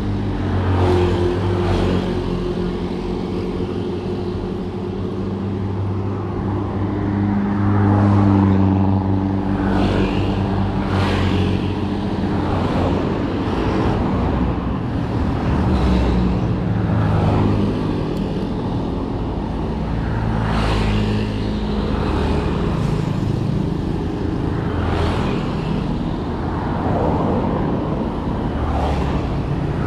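Motor vehicle engine running amid road traffic noise, its pitch holding steady for stretches and shifting up and down.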